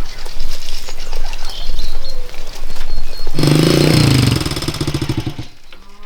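A cow lowing: one long, low, rough call beginning about three seconds in and lasting about two seconds.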